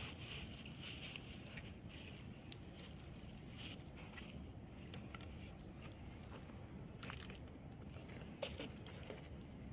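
Steady low rush of a mountain river, with scattered small clicks and knocks on top.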